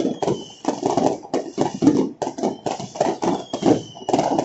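Dense, irregular barrage of fireworks and firecrackers going off across a city, sharp bangs and pops overlapping several times a second. A thin falling whistle runs through it about three seconds in.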